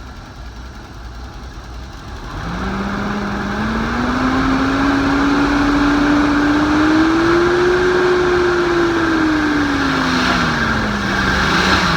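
Datsun 280ZX's L28 inline-six running just after its first start in years. About two seconds in, its speed is brought up in a slow rising tone, held, then eased back down near the end. It is missing a little, which the crew puts down to old stale fuel in the system.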